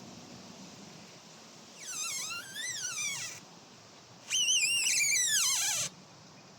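Trees creaking: two long squeaky groans whose pitch wavers up and down, the second louder and sliding down in pitch as it ends.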